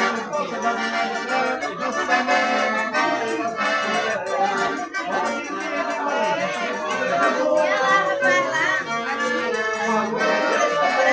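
Accordion-led traditional music playing continuously with a steady beat.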